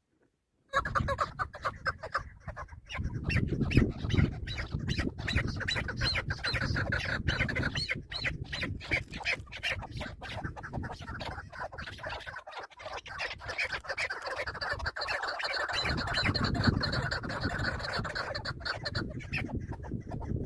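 Chukar partridges calling in rapid, repeated squawking notes over a low noise. The sound starts suddenly about a second in.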